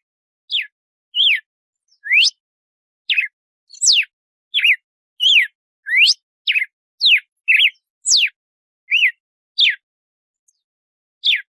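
Red-cowled cardinal (galo-de-campina) singing its 'açoite' song: a string of about fifteen short, clear whistled notes, some sweeping upward and some downward, with brief gaps between them and a longer pause near the end.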